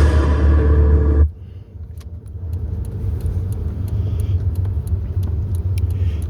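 A loud sound cuts off abruptly about a second in, leaving a steady low rumble like a vehicle running, with faint scattered ticks.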